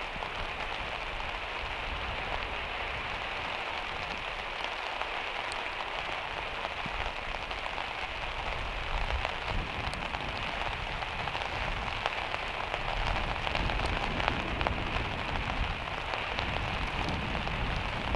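Heavy rain falling on a van's metal roof: a steady, dense patter with scattered sharper drop ticks, getting a little louder from about halfway.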